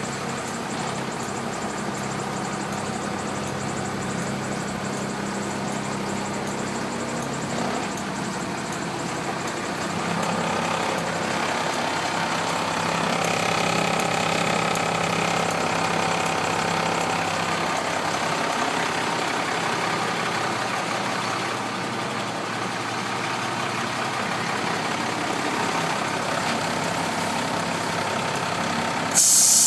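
International DT466 diesel engine of a 1993 International 4900 dump truck running steadily at idle, its pitch shifting and growing fuller about a third of the way in. A sudden loud hiss starts just before the end.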